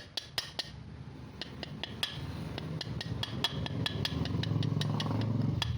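Light metallic clicks and taps, with a low engine rumble that grows louder over the second half.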